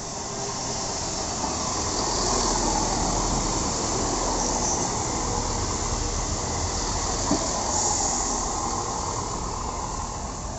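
A passenger train passing on the rails: a steady rush of wheel and rail noise with a high hiss that swells over the first two seconds, holds, and fades near the end.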